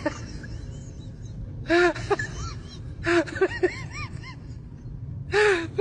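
An animal's voice: short, high rising-and-falling cries in three quick bunches about two seconds apart, over a steady low background rumble.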